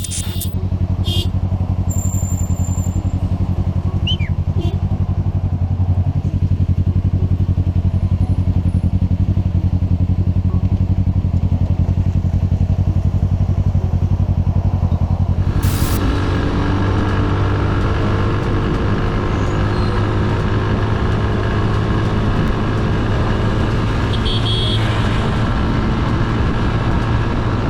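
Motorcycle engine running while riding on the road, a steady low hum. About two-thirds of the way through, the sound changes abruptly to a fuller, brighter mix.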